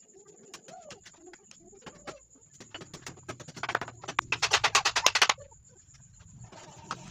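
Rapid, even clicking, about ten strikes a second, that builds for a couple of seconds and stops suddenly, typical of a power driver sinking a screw into the wooden frame. Faint bird calls come before it.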